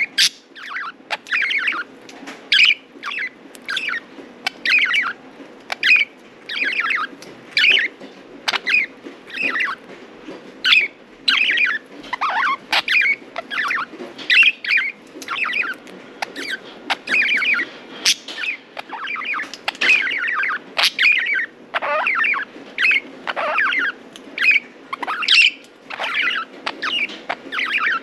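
Budgerigars chattering: a near-continuous run of short, warbling chirps and squawks, several calls a second, over a steady low background hum.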